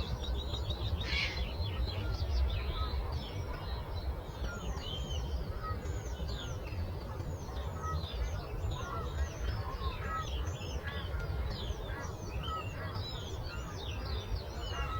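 A dense chorus of songbirds: many overlapping high chirps and quick sweeping notes, with no let-up, over a steady low background rumble.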